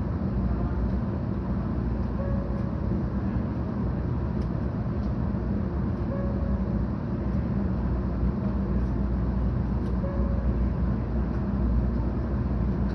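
Steady running noise inside the cabin of a 700 series Shinkansen train: an even, low rumble from the wheels, track and car body.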